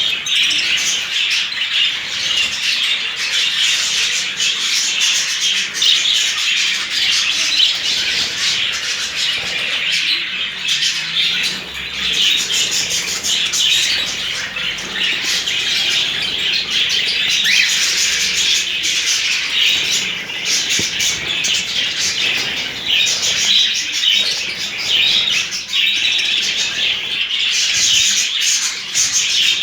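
A flock of budgerigars chattering and warbling without pause, many quick chirps overlapping.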